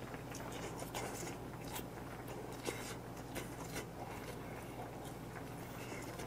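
A man chewing a mouthful of spicy fish cake close to the microphone: soft wet mouth clicks and smacks scattered throughout, over a low steady hum.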